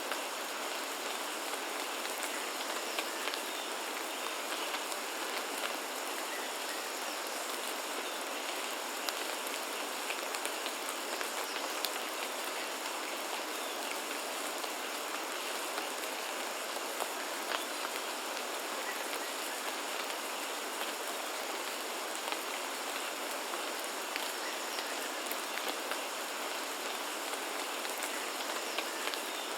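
Steady rain falling: an even hiss with many scattered sharper drop ticks.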